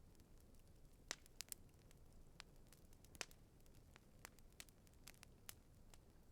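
Campfire crackling faintly: irregular sharp pops and snaps from the burning wood, a few louder snaps among them, over a soft low hiss.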